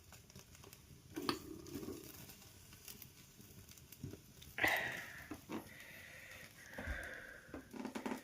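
A person eating on camera: scattered soft clicks and short mouth and handling noises, a few of them louder, about a second in and again near the middle.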